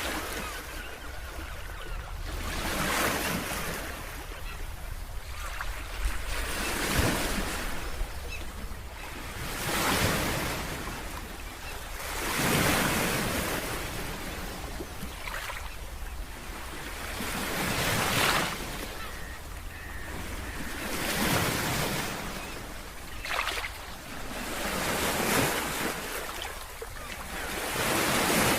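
Sea waves breaking and washing in, swelling and fading in a surge roughly every three seconds.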